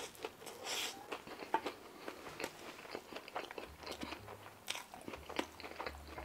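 Close-miked chewing of a forkful of tater tot poutine: irregular small crunches and mouth clicks, several a second.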